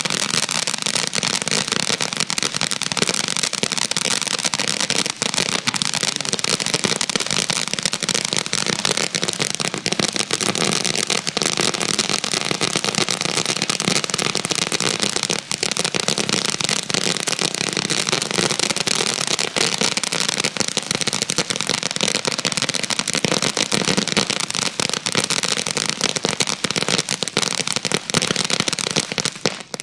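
Black Cat Firecracker Barrage fireworks cake firing: a dense, unbroken crackle of rapid small bangs that keeps up without pause and stops at the very end.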